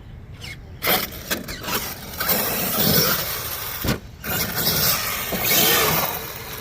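Traxxas X-Maxx RC monster truck driving hard, its electric motor whining up and down over the noise of tyres on the ground, with a sharp knock about a second in and another about four seconds in.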